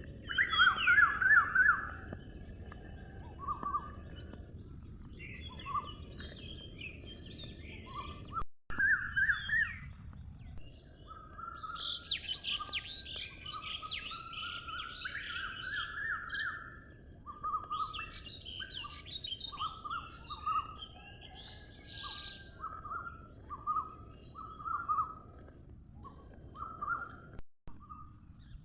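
Several small birds chirping in short repeated notes, busiest in two stretches in the middle, over a steady high-pitched hiss.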